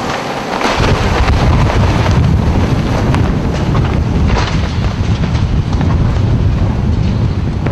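Storm-force wind blasting, with heavy wind buffeting on the microphone: a loud, continuous rushing roar that deepens into a strong low rumble under a second in and stays there, with scattered brief crackles of debris or rattling.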